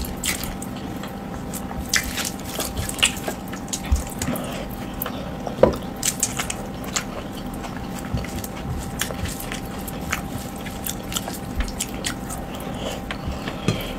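Close-miked eating sounds: wet chewing and lip smacks from a mouthful of rice and potato curry eaten by hand, with fingers squishing rice on a steel plate. Many short, irregular wet clicks and smacks.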